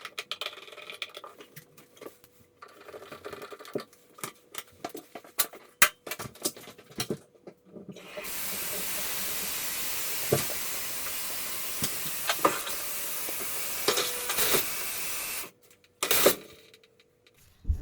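Clicking and knocking of parts being handled, then an electric shower running: a steady hiss of spraying water for about seven seconds that stops abruptly, followed by a short burst of spray.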